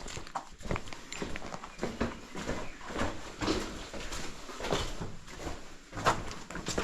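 Footsteps on a trail: a run of irregular taps and scuffs, several a second.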